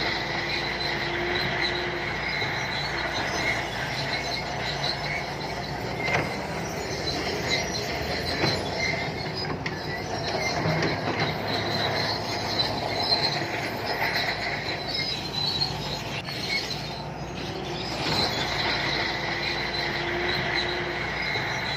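Shantui crawler bulldozer working, its diesel engine running under a steady high-pitched squeal from the steel tracks.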